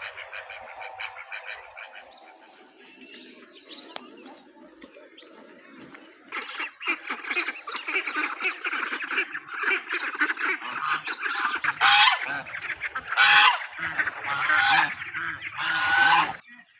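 A flock of domestic waterfowl calling. Quieter calls at first swell into a dense chorus about six seconds in, with several loud single calls in the last few seconds before the sound cuts off just before the end.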